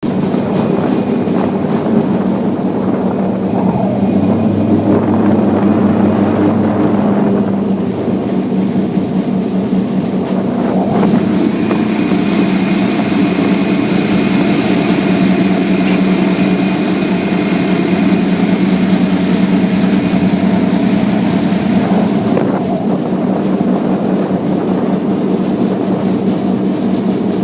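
Mud boat's mud motor running steadily at a constant pitch. From about eleven to twenty-two seconds in, a hiss and a faint high whine ride on top of the engine.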